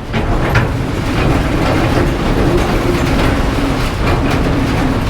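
Strong storm wind gusting against a vintage VW bus, a loud steady rumble with a few sharp knocks.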